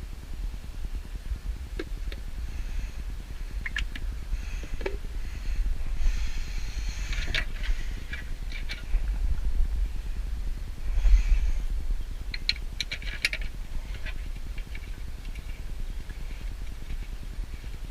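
Scattered light clicks and scrapes, bunched around the middle, over a steady low rumble.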